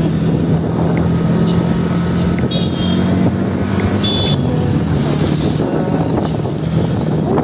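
Steady hum of a vehicle's engine and road noise while driving along.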